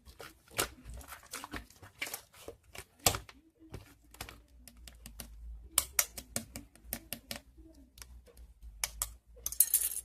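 Crunchy slime being squeezed and pressed by hand, giving irregular crackling clicks and pops, with a dense run of crackles near the end.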